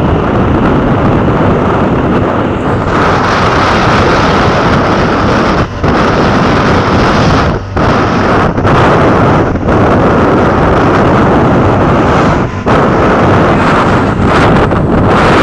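Loud, steady rushing noise of wind blowing across the microphone, broken by a few brief dips.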